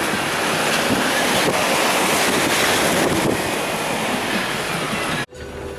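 Loud, steady rushing noise, most likely fast-flowing floodwater, with wind buffeting the microphone. It cuts off abruptly near the end and gives way to a quieter low hum.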